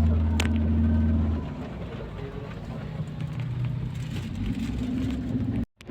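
Vehicle engine and road noise while driving, with a loud low drone for about the first second and a half, then a quieter running engine. The sound drops out suddenly for a moment near the end.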